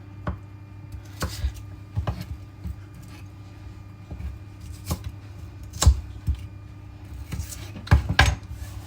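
Kitchen knife chopping onion on a cutting board: irregularly spaced knocks of the blade hitting the board, some louder than others.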